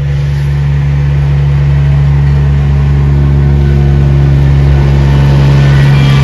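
A large engine running steadily close by with a low, even hum, growing gradually louder.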